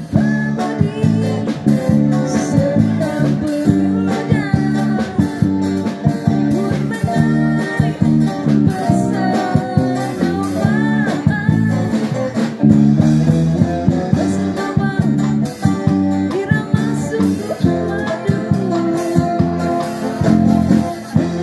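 A woman singing a bossa nova song live, accompanied by a busking band's guitar and bass guitar.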